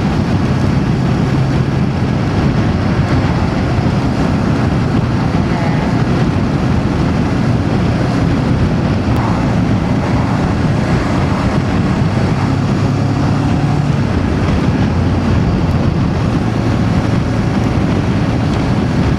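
Voge DS525X motorcycle's parallel-twin engine running at road speed, with wind rushing over the microphone. The engine note shifts up and down a little as the throttle changes.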